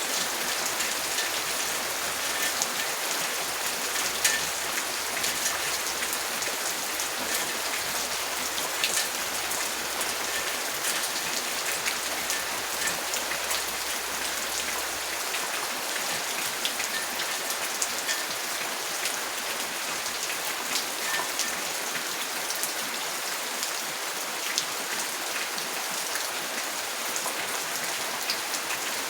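Steady rain falling, with many small drop ticks pattering on a surface over an even hiss.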